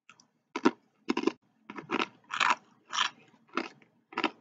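Close-up crunching as a mouthful of red, spicy rolled tortilla chips (Takis-style) is chewed, about two crisp crunches a second.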